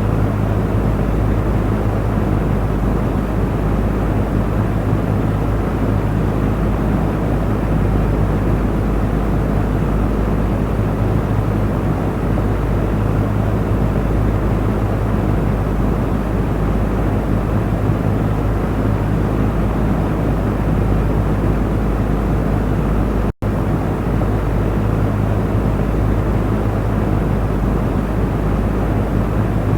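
Electric cooling fan running steadily: an even rush of moving air over a constant low motor hum. About three-quarters of the way through it cuts out for a split second, then carries on unchanged.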